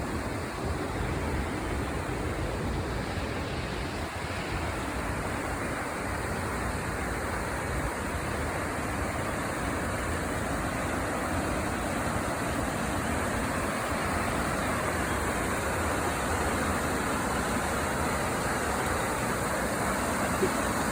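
Creek water flowing, a steady rushing sound that grows slightly louder toward the end.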